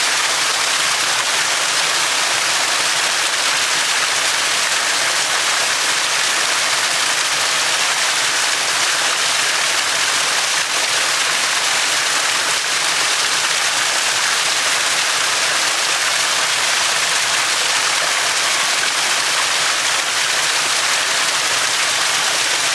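Small stream flowing: a steady, even rush of water.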